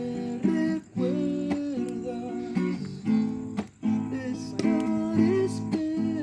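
Music: acoustic guitar strumming chords.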